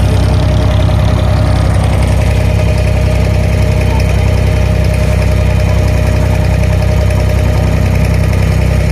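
The diesel engine of a wooden abra water taxi running steadily, loud and close, with a constant low drone and no change in speed.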